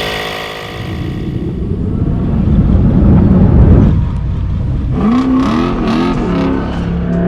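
Drift vehicle's engine accelerating hard, getting louder up to about three and a half seconds in, then revving up and down in quick blips.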